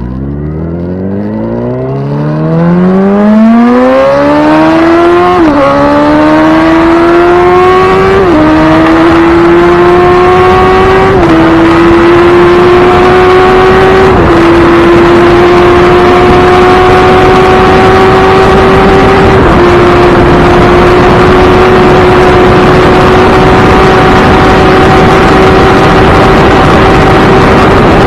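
Motorcycle engine accelerating hard from low speed through the gears. The pitch climbs, drops at each of five upshifts, then holds nearly steady at high speed.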